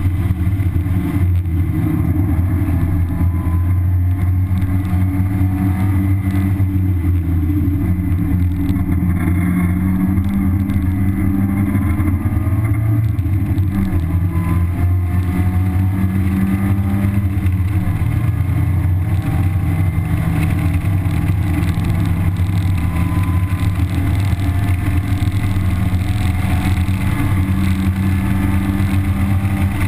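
1991 Mazda Miata's 1.6-litre four-cylinder engine, on its stock exhaust, running hard at track speed as heard from inside the cabin, with steady road noise underneath. Its pitch rises and steps down a few times as the revs change, most clearly about a third and halfway through.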